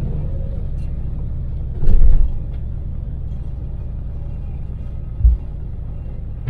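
Daewoo Damas van's small three-cylinder LPG engine and road rumble heard inside the cabin at expressway speed, a steady low drone. A louder low thump comes about two seconds in and a short one just past five seconds.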